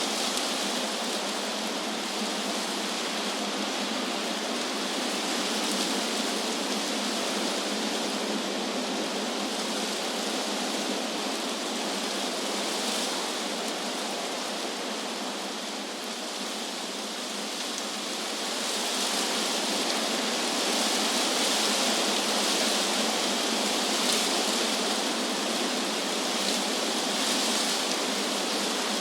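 Wind blowing through trees, the leaves making a steady rushing hiss that eases a little about halfway through, then picks up again in stronger gusts.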